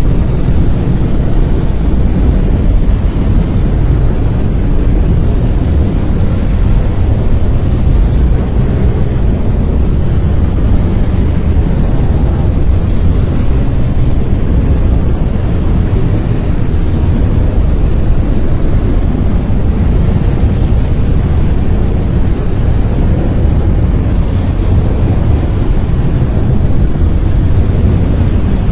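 Steady brown noise: a constant deep, rumbling hiss with most of its energy in the low end, unchanging throughout.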